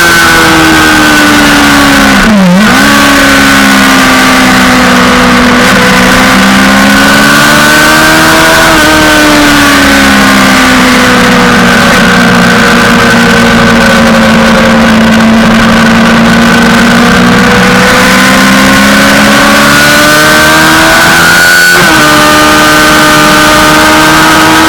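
Suzuki GSX-R600 sportbike's inline-four engine running hard at high revs, its pitch sagging and climbing with the throttle through the corners. There is a sharp dip in pitch about two and a half seconds in and a gear change near the end, all over a rush of wind noise.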